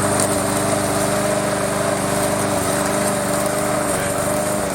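Remote-control push lawn mower's small engine running steadily, with a thin steady whine above the engine note.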